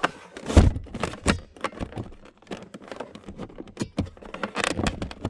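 A car's rear seat latch lever and seat being worked by hand: a run of clicks, rattles and knocks, with one heavy thump about half a second in.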